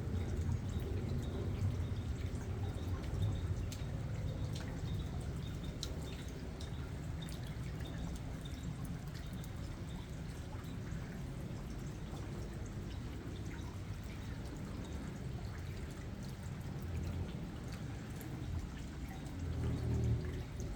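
Steady rain with scattered drips ticking, over a low rumble.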